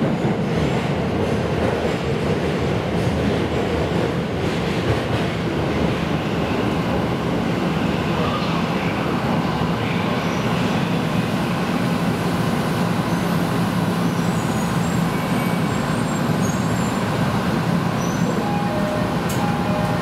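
Electric train running, heard from inside the passenger car: a steady rumble of wheels rolling on the rails with a low hum underneath.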